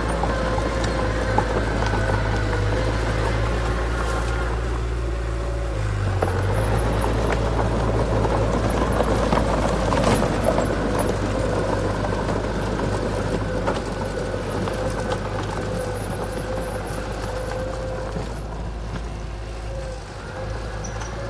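Diesel engine of heavy earthmoving machinery running steadily, with some clatter; it grows louder about six seconds in and eases off near the end.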